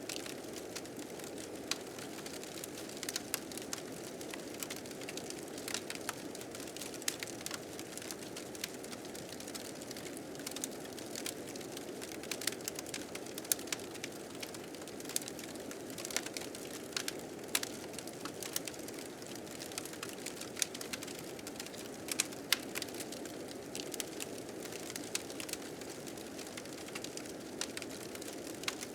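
Wood fire crackling, with frequent irregular sharp pops, over a steady low rushing of blizzard wind.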